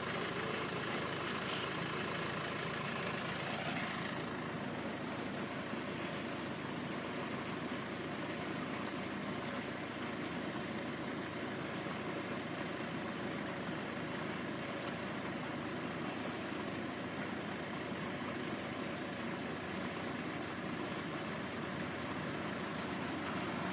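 Class 142 Pacer diesel railbus running slowly over the level crossing, its underfloor diesel engine giving a steady, even running sound.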